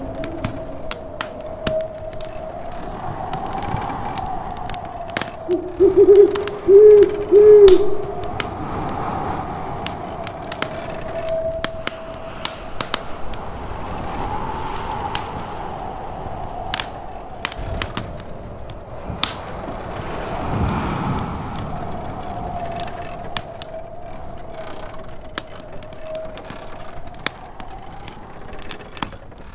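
Wood fire crackling and popping in a fireplace while snowstorm wind howls, its whistle rising and falling in slow gusts. About six seconds in, a loud pitched sound comes in three short arcs, louder than everything else.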